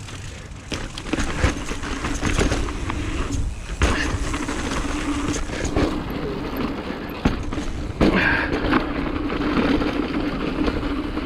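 Mountain bike running down a dirt trail: tyre noise, wind and rough rattling knocks as the bike goes over bumps, with a steady buzz that breaks off twice and a harder jolt partway through.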